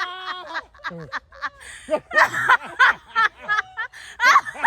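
People laughing in a run of short vocal bursts.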